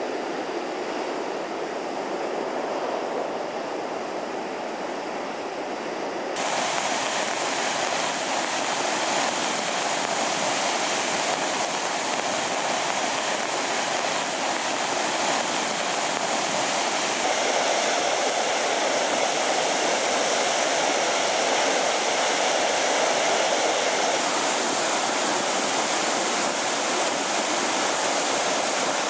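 Steinsdalsfossen waterfall: a steady, dense rush of falling water. The rush jumps louder and brighter about six seconds in, and brighter again near the end.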